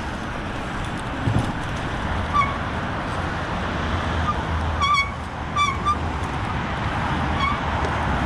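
Steady wind and rolling noise on an action camera riding along on an electric bike. A handful of short, high chirp-like calls or squeaks cut through it, spread across the few seconds.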